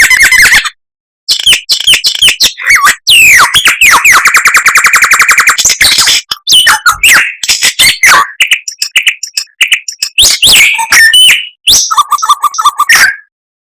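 A songbird's loud, varied song: whistled sweeps, a long rapid trill and fast chattering notes, broken by abrupt gaps, as in a bird-song recording used for masteran training.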